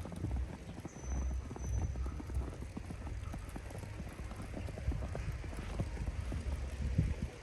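Footsteps crunching in snow, a steady walking run of short steps, with gusts of wind buffeting the microphone.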